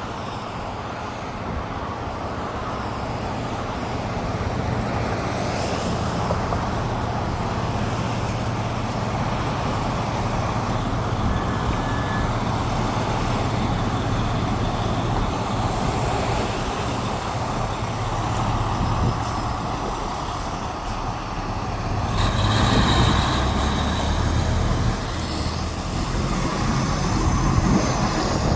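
A fire engine's engine running steadily with a low hum, growing louder about 22 seconds in with a noisy burst.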